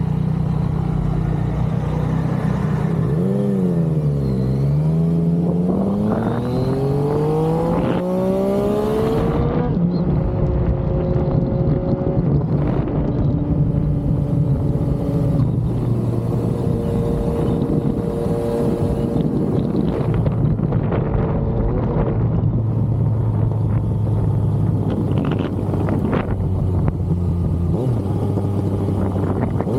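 Yamaha XSR900's inline three-cylinder engine on the move, heard over steady wind rush. The revs dip briefly, then climb in a long rising pitch for about five seconds as the bike accelerates, and settle to steadier cruising revs with small changes in pitch.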